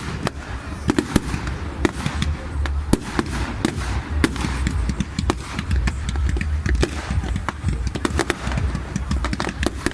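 Fireworks going off: a rapid, irregular run of bangs and crackles, several a second, over a low rumble.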